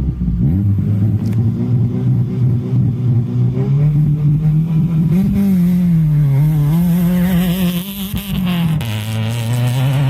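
Naturally aspirated Subaru Impreza 2.5RS flat-four rally engine running hard under load, its pitch climbing and falling through gear changes and lifts. About eight seconds in it briefly dips with a crackle, then settles to a lower, steady note.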